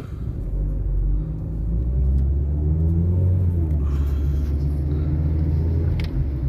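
Car on the move: a low, steady engine and road rumble that builds over the first couple of seconds.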